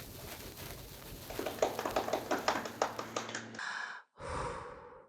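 A quick, irregular run of sharp taps or clicks over a low steady hum, followed by two short bursts of noise before the sound cuts off.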